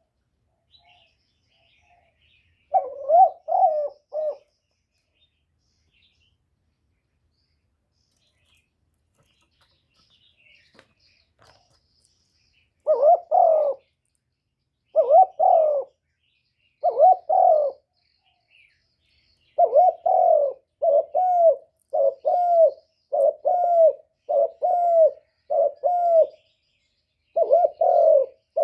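Spotted dove cooing: a short run of coos a few seconds in, then after about nine seconds of quiet, repeated cooing phrases that come about once a second in the last third. Faint high chirps of other birds sound in the background.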